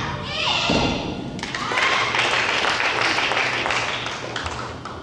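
Brief high-pitched shouts of cheering, then applause and clapping for about three seconds that fades near the end.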